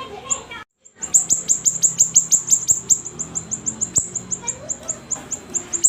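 Siri-siri bird singing vigorously: a fast run of short, high chirps, each sweeping downward, about five or six a second, broken by a brief silence about a second in.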